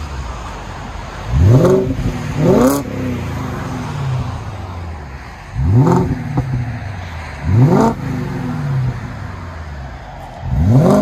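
2000 BMW 540i 4.4-litre V8 with its rear mufflers deleted and replaced by 3-inch pipe, idling and blipped five times. Each blip is a quick rev that rises sharply and drops straight back to idle: two close together near the start, two in the middle, one near the end.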